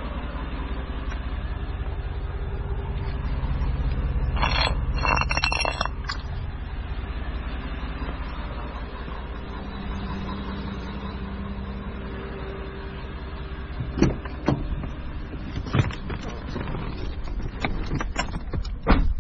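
The 5.3-litre V8 of a 2016 GMC Yukon XL idling steadily, with a brief metallic jingle about a quarter of the way in and a few sharp knocks and clicks near the end.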